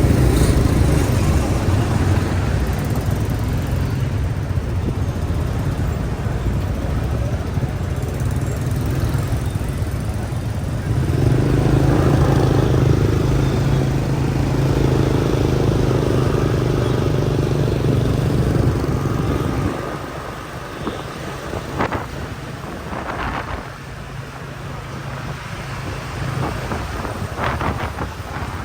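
Motorbike riding through city traffic: a steady engine and road rumble, with a louder engine tone swelling for several seconds in the middle. It eases off about two-thirds of the way through, and a few short sharp sounds follow.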